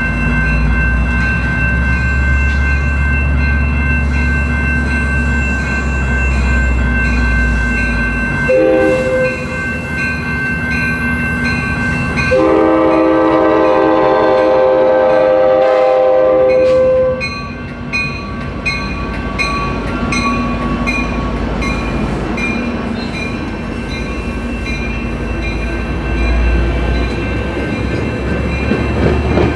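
A train passing with a locomotive rumbling heavily at first. A short horn note sounds about eight seconds in, then a long horn blast of several notes at once lasts about five seconds in the middle. After it, steady evenly spaced clicking of wheels over the rails continues as the cars roll by.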